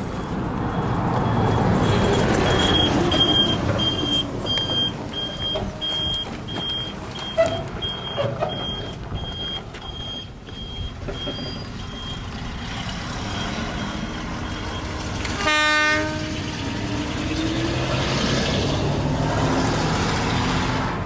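Narrow-gauge sugar cane railway train running, with a high electronic beep repeating about twice a second for most of the first fifteen seconds. A single short horn blast sounds about fifteen seconds in, and the engine's pitch then rises as it pulls away.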